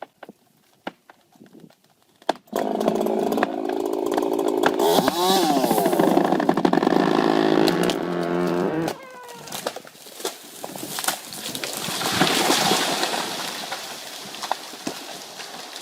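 Chainsaw running for about six seconds, its revs dipping and climbing again once midway, then cutting off. A rushing noise then swells and fades.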